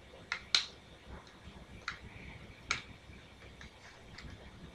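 Plastic segments of a Rubik's Snake puzzle clicking as they are twisted into place: a few sharp, irregular clicks, the loudest about half a second in.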